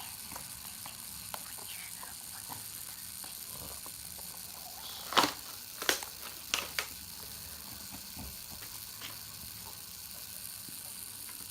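Small plastic toys being handled: a few sharp clicks and taps about five to seven seconds in, over a steady faint hiss.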